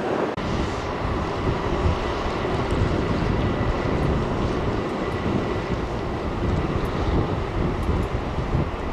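Jet airliner's engines at takeoff power on its takeoff roll: a steady, dense rumble, with wind on the microphone.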